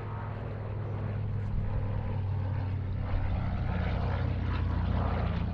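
Douglas C-41A (DC-3 variant) in flight, its two radial piston engines and propellers running with a steady low drone that grows louder over the first couple of seconds and then holds.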